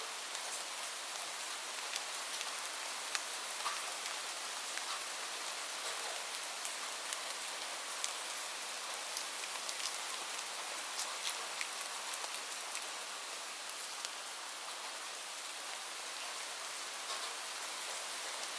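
Steady rain falling, an even hiss with many distinct drops pattering on a surface.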